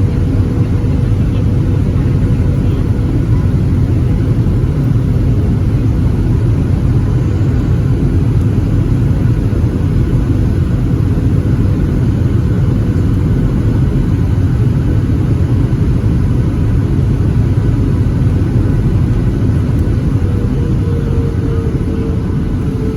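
Boeing 737-700 cabin noise during landing: a steady low rumble of the CFM56 engines and airflow, with a faint steady whine that slowly falls in pitch near the end.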